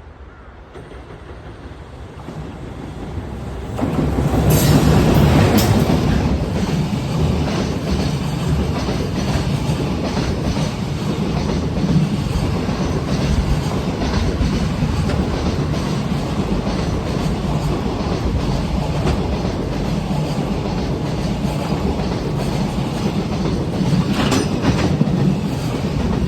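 JR Freight EF210 electric locomotive approaching and passing, then a long train of container flatcars rolling by with a steady rumble and clickety-clack of wheels over the rail joints. The sound builds for about four seconds, jumps as the locomotive goes past, then holds steady as the wagons pass.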